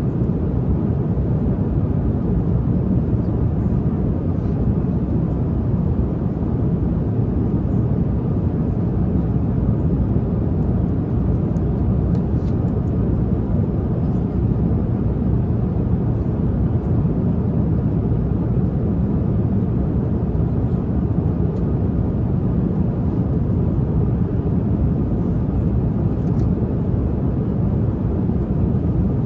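Airliner cabin noise in flight: a steady low drone of engines and rushing air.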